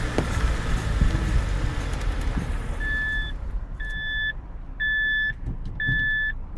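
Driving noise inside a car fades over the first couple of seconds, then a reversing warning beeper starts, sounding a short beep about once a second.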